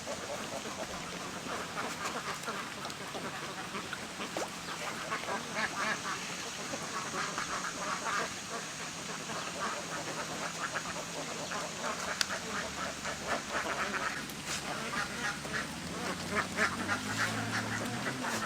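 A large flock of domestic ducks quacking, with many birds calling over one another in a continuous chorus.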